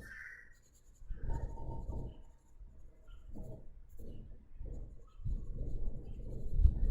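Sketching strokes on paper, scratching in an irregular series of short and longer strokes as feather lines and shading are drawn, the longest and loudest near the end.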